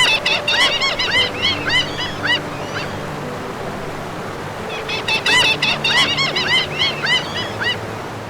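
Two bouts of rapid, short, high chirping animal calls, each call rising and falling in pitch, about three to four a second, over background music.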